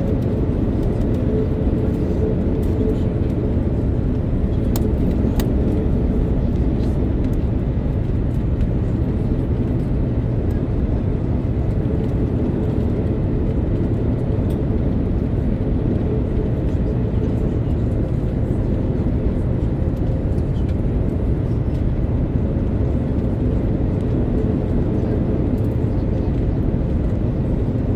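Steady cabin noise inside an Airbus A330-900neo airliner on final approach: a dense, even rush of airflow and Rolls-Royce Trent 7000 engine noise with a faint steady hum.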